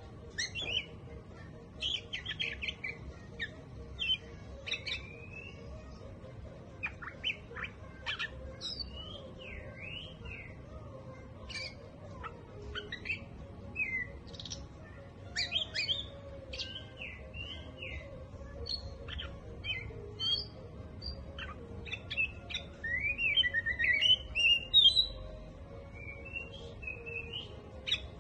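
A songbird singing a long, varied run of short chirps, whistles and sweeping notes. It gets busier and louder about 23 seconds in.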